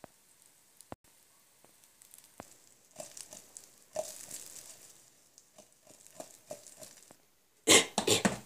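Chicken nuggets frying in a pan: sparse faint pops at first, then a soft crackling hiss from about three seconds in. Near the end, several very loud, rough rushes of noise come right at the microphone, drowning out the frying.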